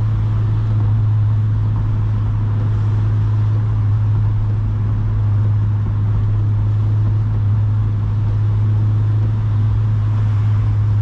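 8th-gen Honda Civic Si's K20 four-cylinder engine and exhaust droning at a steady cruise, with an even hiss underneath.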